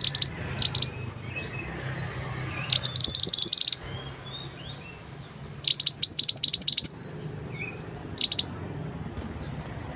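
Mantenan (pied bushchat) singing: bursts of rapid, high, repeated chirping notes, four or five phrases with short pauses between, the longest about a second.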